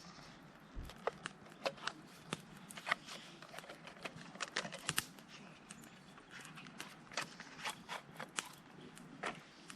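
Irregular sharp clicks and ticks, several a second, some louder than others.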